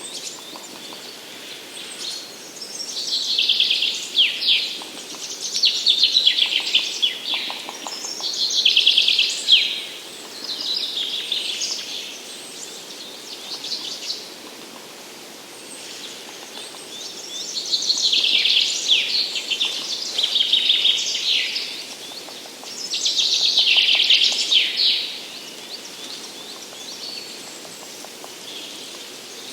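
A songbird singing a short, rapid, falling song phrase over and over, every few seconds, with a pause of a few seconds around the middle. Faint steady forest background noise lies underneath.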